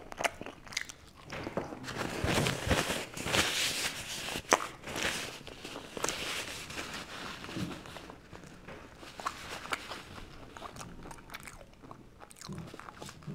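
Close-miked chewing and crunching of a bite of crusty bread, with a paper napkin rustling in the hands in the middle. A drink from a bottle near the end.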